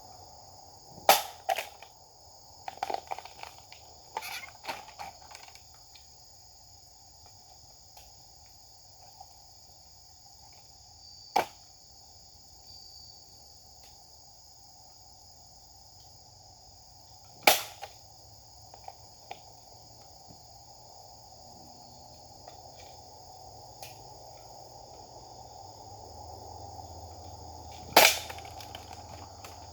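Japanese sword (katana) cuts striking targets: sharp single cracks, a quick cluster in the first five seconds, then one at a time several seconds apart. Crickets and other insects chirr steadily underneath.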